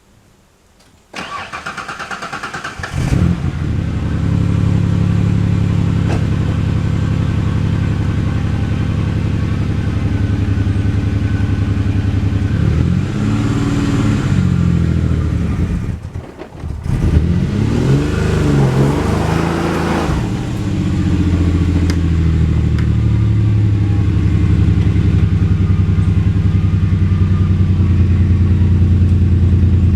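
A 1991 Ford Explorer's 4.0-litre V6 cranks on the starter for about two seconds, catches and runs. It is revved up and down twice, dipping sharply for about a second between the two, then runs steadily.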